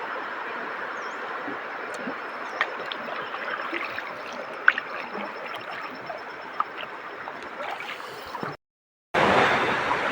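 River water rushing and gurgling around a rafting boat, with small splashes and knocks scattered through it. The sound drops out for about half a second near the end, then comes back louder.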